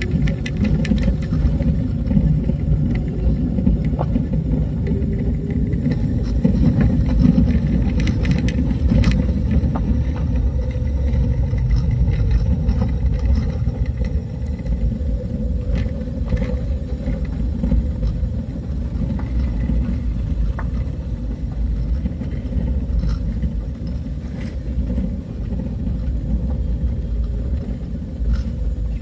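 Vehicle travelling along a road: a steady low rumble with scattered clicks and knocks.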